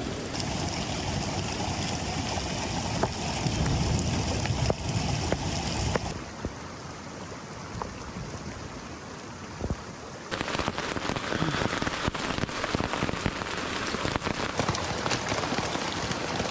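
Heavy rain falling, a steady hiss full of single drops ticking as they hit a surface. The sound changes abruptly at about six and again at about ten seconds.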